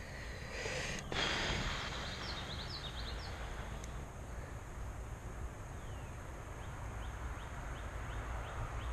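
Outdoor ambience with a steady low rumble and a short rustle about a second in. Small birds chirp faintly: a quick run of short falling notes two to three seconds in, then more widely spaced ones later.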